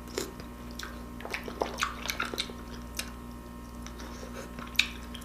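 Scattered soft, wet clicks and crackles of shellfish legs being picked apart and eaten.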